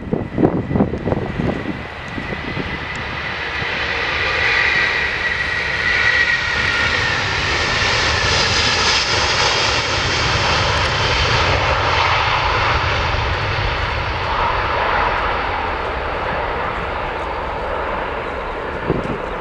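Airliner's engines passing, the roar building to a peak mid-way and slowly easing off, with a high whine that drops a little in pitch as it goes by. Wind buffets the microphone at the start.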